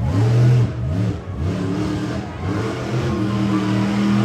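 Monster truck engine revving in quick throttle bursts, its pitch rising and falling several times, then holding a steady note for about a second before dropping near the end.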